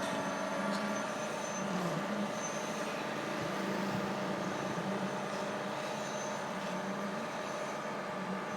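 Zoomlion 37 m concrete pump truck running steadily, with an even engine hum.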